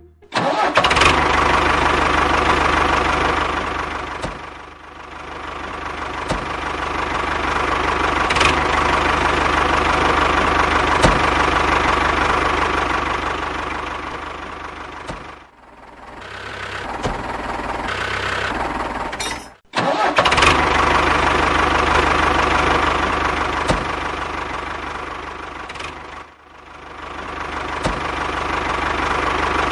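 The small motor of a homemade miniature tractor running steadily. Its level falls away and builds back up several times, and it breaks off abruptly for a moment about two-thirds of the way through.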